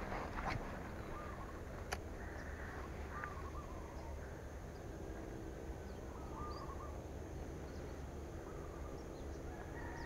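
Birds calling outdoors: short warbling calls every two or three seconds and faint high chirps over a steady low background noise. Two sharp clicks fall in the first two seconds.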